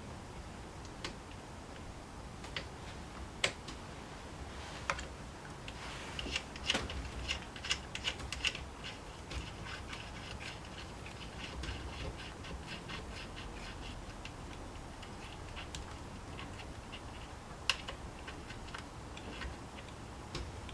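Small clicks and light ticks of parts and tools being handled during hands-on reassembly work on a Honda UMK422 trimmer, with a quick run of ticking in the middle.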